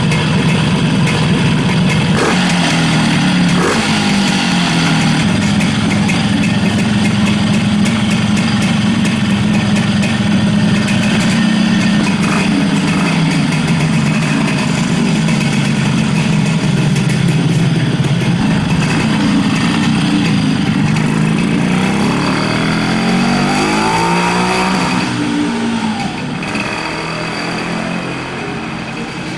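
1961 Montesa Brío 110 S 'Monotubo' 125 cc single-cylinder two-stroke motorcycle engine with a single exhaust, running steadily with a few short blips of the throttle. About two-thirds of the way in it is revved up with a rising pitch and then drops back, and the sound fades somewhat near the end.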